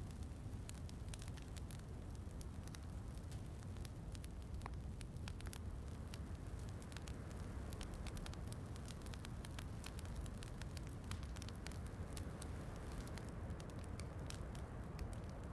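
Wood fire crackling in a fireplace, with frequent small irregular pops, over a steady low rushing background of rain.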